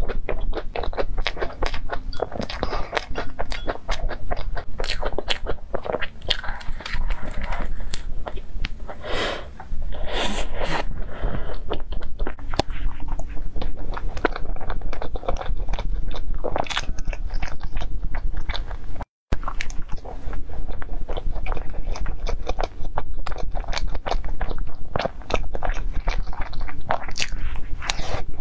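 Close-miked eating of cream puffs: biting into the pastry and chewing, with many quick wet mouth clicks. The sound cuts out for a moment about two-thirds of the way through.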